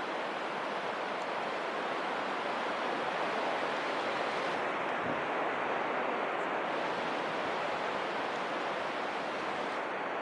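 Strong wind rushing steadily, an even hiss-like roar that holds at one level throughout.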